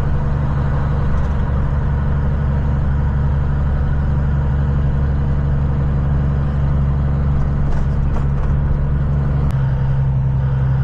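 Vehicle engine and road noise heard while driving: a steady low drone whose note shifts about nine and a half seconds in.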